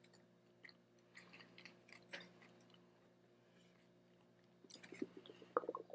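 Faint chewing of a mouthful of sweetbread taco, with soft scattered mouth clicks and smacks that grow busier near the end.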